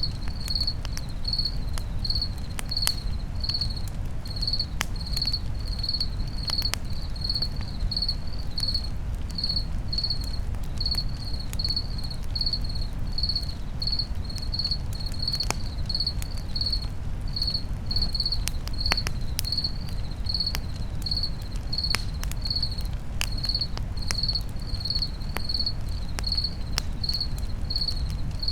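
A cricket chirping steadily, about two short high chirps a second. Over a low rumble, a campfire crackles with scattered sharp pops.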